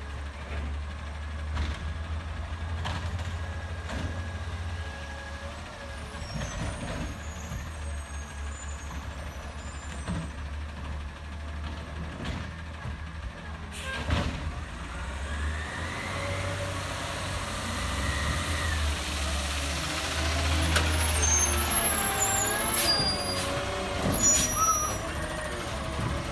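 CNG Peterbilt 320 garbage truck running with a steady low engine hum, broken by air-brake hisses and a few sharp knocks; in the second half, wavering and rising tones join in and the sound grows a little louder.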